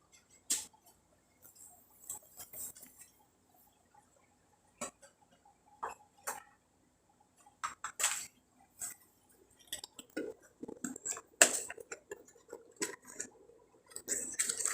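Dishes and utensils clinking and knocking, a few light clicks at a time with irregular gaps; one knock about eleven and a half seconds in is the loudest, and the handling gets busier near the end.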